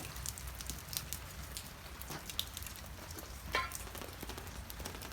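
Light rain pattering on surfaces outdoors, with many scattered drop ticks and one somewhat louder tap about three and a half seconds in.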